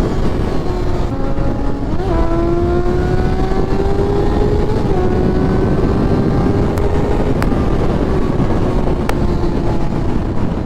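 Vehicle engine held at high revs under hard driving, its pitch creeping slowly up, with a quick pitch jump about two seconds in and a slight dip about five seconds in, over steady wind and road rush.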